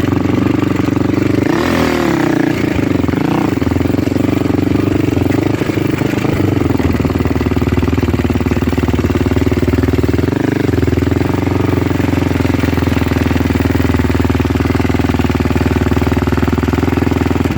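A vehicle engine running steadily at a constant pitch, wavering briefly about two seconds in.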